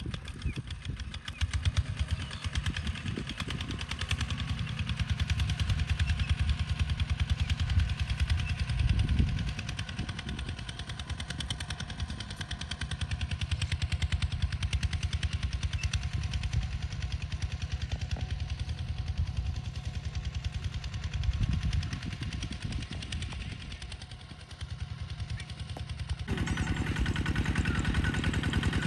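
Kubota ZT140 walking tractor's single-cylinder diesel engine running under load while plowing, with a rapid, even firing knock that rises and falls in level. Near the end it becomes louder and brighter.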